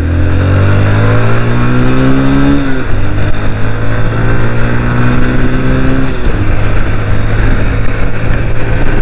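Hero Ignitor 125's single-cylinder four-stroke engine accelerating hard from the throttle: its pitch rises through one gear, drops at an upshift about three seconds in, rises again through the next gear, drops at a second shift about six seconds in, then runs steadily at speed.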